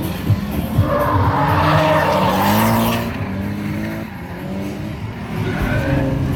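Drift car engine revving hard with tyres squealing as it slides past, the squeal loudest from about one to three seconds in.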